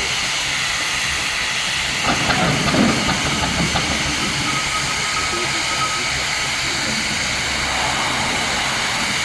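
1897 Ransomes traction engine running with a steady hiss of steam, growing louder for a second or two about two seconds in.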